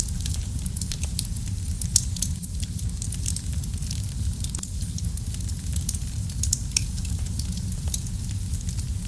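Wood fire in a fireplace crackling: a steady low rumble under frequent small irregular snaps and pops, with a sharper pop about two seconds in.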